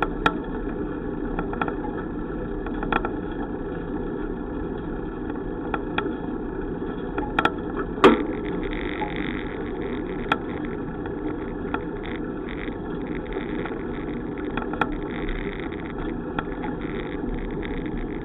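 Steady rumble and wind noise of a bicycle being ridden, heard from a bike-mounted camera, with scattered light clicks and rattles and one sharper knock about eight seconds in.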